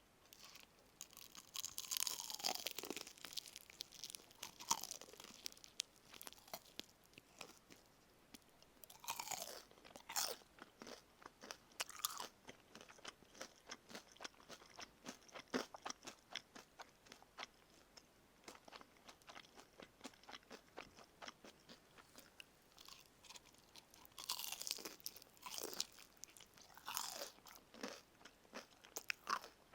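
Crunching bites into crispy karaage (Japanese fried chicken), then chewing. The loudest crunches come about two seconds in, around nine seconds and again around twenty-five seconds in, with steady chewing clicks between.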